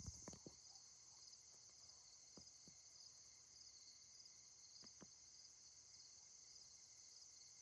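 Faint, steady chorus of crickets chirping in a high, rapidly pulsing trill, with a few soft clicks.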